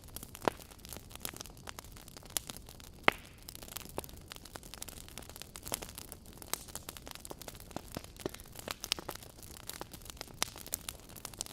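Wood fire crackling: irregular sharp pops and snaps over a soft steady hiss, with two louder pops, about half a second and three seconds in.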